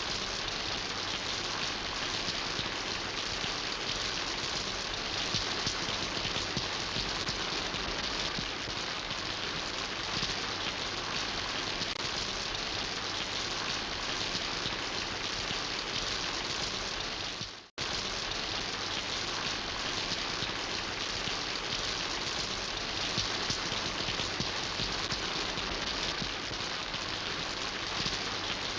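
Steady rainfall, an even hiss of many drops. About two-thirds of the way through it fades out to silence for a split second and comes straight back.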